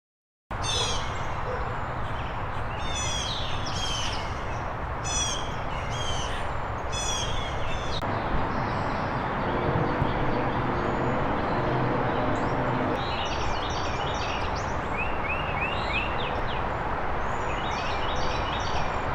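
Wild birds calling over steady background noise: a run of repeated sharp calls in the first half, then quicker, chattering notes near the end.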